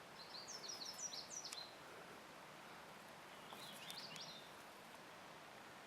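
A songbird singing faintly: a quick run of high chirping notes for about a second and a half, then a shorter phrase in the middle, over a faint steady outdoor hiss.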